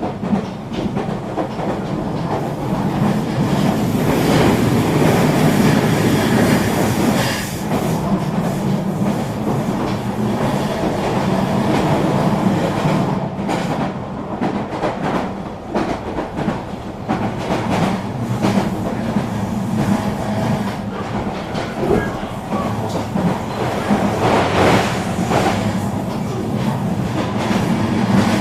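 Regional train running along the line: steady rumble and hum of the carriage with wheels clicking over the rails, swelling louder a few seconds in and again near the end.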